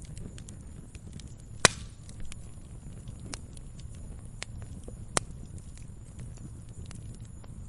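Wood fire crackling in a fireplace: a low steady rumble of flames under scattered small clicks. A sharp pop comes about a second and a half in, and a smaller one about five seconds in.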